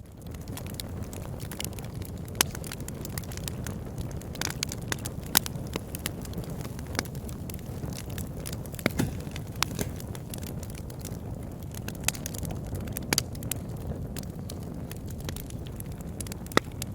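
Fire burning in a fireplace: a steady low rumble of flames with sharp crackles and pops at irregular intervals, a few of them much louder than the rest.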